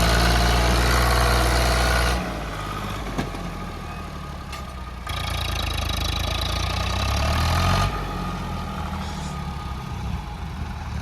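Tractor diesel engine under heavy load, revved high, then throttled back suddenly about two seconds in. From about five seconds it revs up again with rising pitch, straining against a heavily loaded trolley, and drops back to a lower run near eight seconds.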